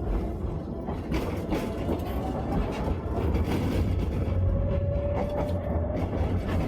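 Tatra T3 tram running, heard from inside the car: a steady rumble with clicks and knocks from the wheels on the rails, and a faint whine that drifts slowly up and down in pitch.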